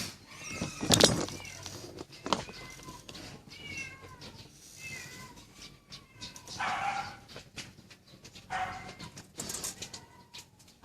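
A cat meowing several times in short, high, wavering calls. There are two sharp knocks in the first couple of seconds, the first one loud.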